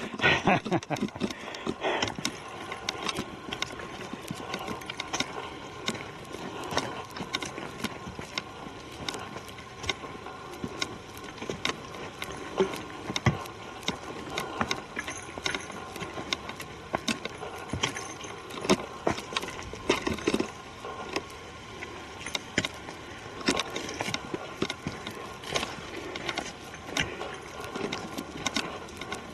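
Footsteps of people walking on a forest trail: a steady run of irregular scuffs and crunches.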